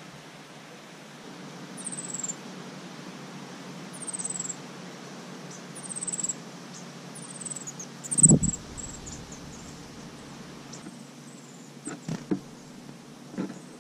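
High, thin bird chirps: short falling notes about every two seconds that come quicker in a run just past the middle. A loud thump comes about halfway through and a few light knocks near the end, over a low steady hum.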